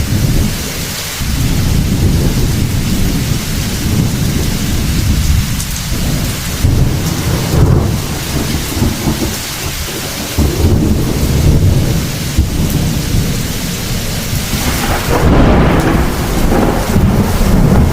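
Heavy thunderstorm: steady rain with deep rolling thunder that swells and fades several times, the loudest roll building near the end.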